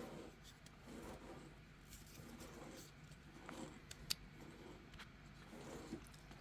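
Quiet indoor room tone with faint low murmurs and one light click about four seconds in.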